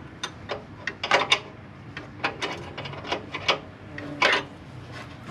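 Wrench and other hand tools clicking and clanking on metal as they are worked onto a motorcycle rear shock bolt: a dozen or so irregular sharp clicks and knocks.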